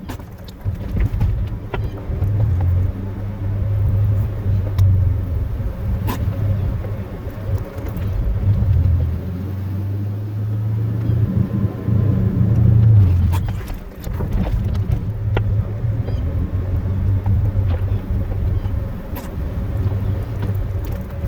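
Chevrolet pickup's 8.1-litre Vortec big-block gas V8 running while the truck drives, a low rumble that swells and eases.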